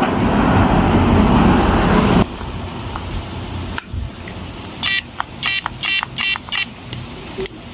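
Cordless reciprocating saw's brushless motor with power applied but not turning: a harsh buzz for about two seconds, then short high chirps in quick runs as the trigger is tried. The sound is the sign of a motor that makes noise but will not spin.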